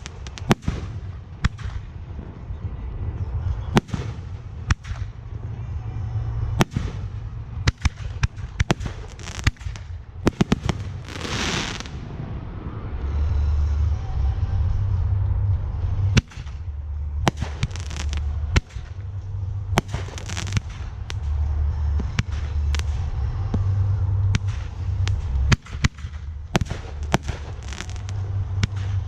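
Fireworks display: a continuous run of sharp bangs from shells bursting overhead, sometimes several a second, with a brief hissing rush about 11 seconds in and a low rumble underneath.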